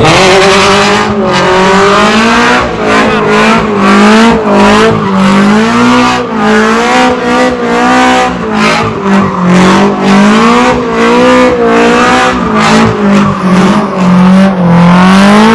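V8 muscle car held at high revs while spinning donuts, the engine note wavering up and down as the throttle is worked, with tyres squealing. The revs climb sharply at the start.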